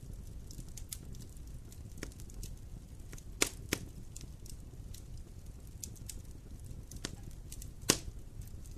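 Campfire crackling: scattered sharp pops and snaps of burning wood, with three louder pops about three and a half seconds in and another near the end, over a low steady rumble.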